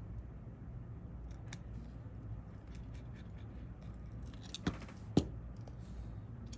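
Small light clicks and taps of hand tools on smartphone parts during a repair, with two sharper clicks about half a second apart a little past the middle, over a steady low hum.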